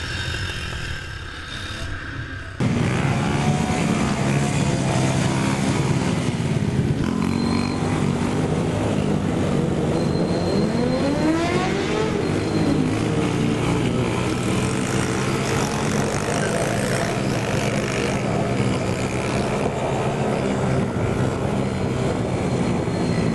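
Small single-cylinder mini-bike engines running and revving, their pitch climbing and dropping as the riders accelerate and back off, with one clear rev climbing sharply about halfway through. The sound jumps suddenly louder about two and a half seconds in.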